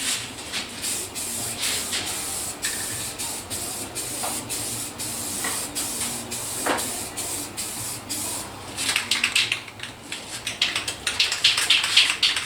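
MIG welder crackling and hissing in spurts as it lays bead on sheet metal, busier and louder over the last few seconds.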